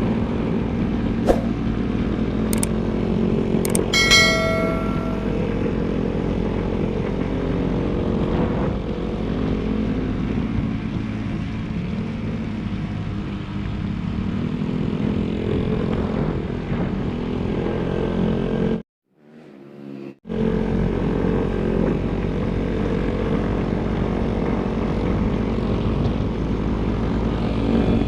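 Motorcycle engine running under way, its pitch rising and falling with the throttle. A few sharp clicks and a short ringing tone come about four seconds in. The sound cuts out abruptly for about a second and a half past the middle.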